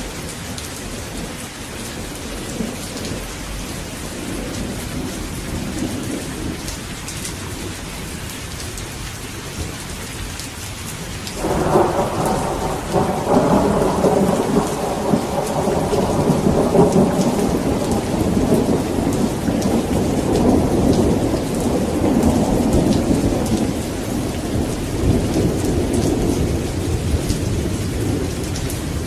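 Steady rain with thunder: a long roll of thunder breaks in suddenly about eleven seconds in and rumbles on over the rain, easing slowly toward the end.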